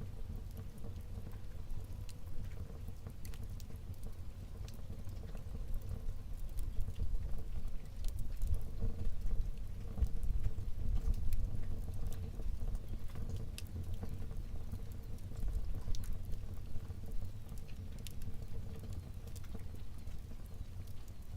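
Fire burning in a fireplace, crackling with scattered sharp pops and snaps over a steady low rumble of the flames.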